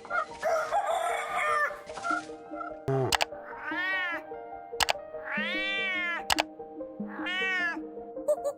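A cat meowing three times, each meow rising and then falling in pitch, over steady background music. A shorter, harsher noisy sound comes first.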